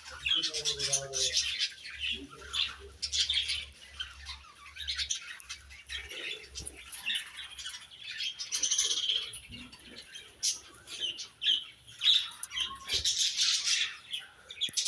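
A flock of parrots chirping and squawking in many quick, overlapping high calls, with wings flapping.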